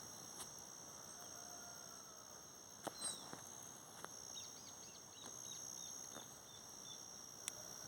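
Faint outdoor ambience dominated by a steady, high-pitched insect chorus. A bird gives a quick series of short chirps about five seconds in, and there are a few soft knocks.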